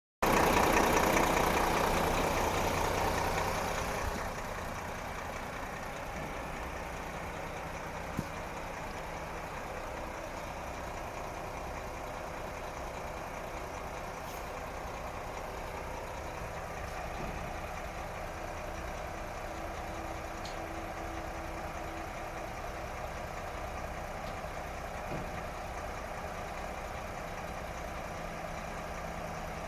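Renault Kerax 460 truck's diesel engine running, louder for the first four seconds and then settling into a steady idle. A single sharp click about eight seconds in.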